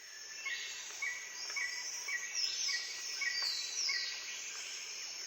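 Birds calling: a short note repeated about twice a second, with higher descending whistled sweeps over a faint hiss, fading in at the start.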